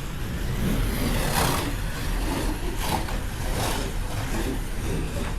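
Scale slot cars racing on a track, their small electric motors whining, with repeated swells as the cars sweep past.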